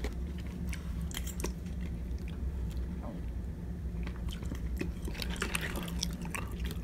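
A person chewing a mouthful of food, with small clicks of a fork against the plastic meal tray, densest about five seconds in. A steady low hum runs underneath.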